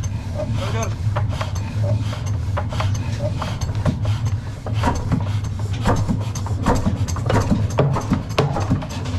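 Large Ruston Hornsby stationary diesel engine being started, turning over with a steady low drone and irregular clicks and knocks.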